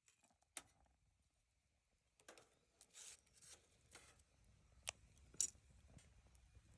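Wood bonfire crackling faintly, with a few sharp pops, the loudest a little past halfway, and short bursts of hiss between them.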